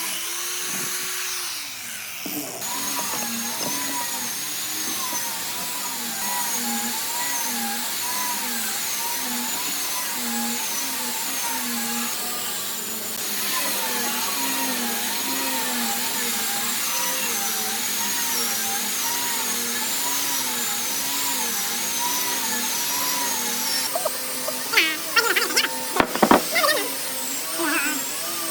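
A power tool's motor whining steadily, its pitch wavering up and down in an even rhythm as the tool works the wood, with a cluster of sharp knocks and clicks near the end.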